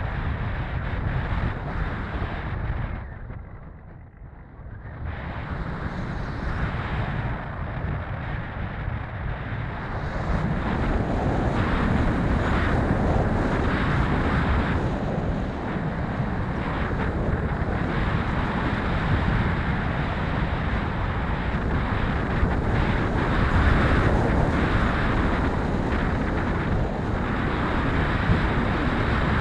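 Strong wind buffeting the microphone in gusts. It eases off briefly about four seconds in, then blows harder from about ten seconds in.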